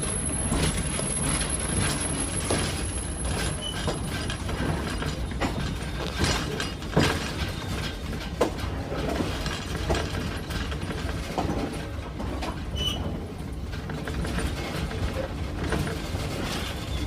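Passenger train rolling along the track, heard from aboard: a steady low rumble with irregular clacks and rattles from the wheels and cars, and two sharper knocks near the middle.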